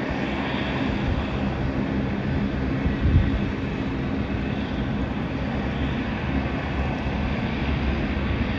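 Jet engines of a departing Airbus A320: a steady rushing noise with a low hum underneath, holding an even level throughout.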